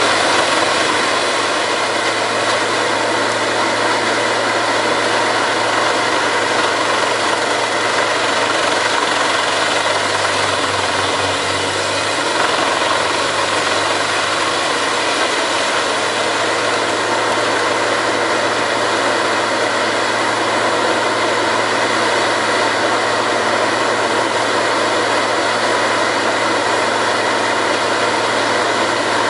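Vantec 1000 R10 forestry drum chipper running steadily with a loud, dense machine noise and an engine note underneath, which shifts slightly about twelve seconds in.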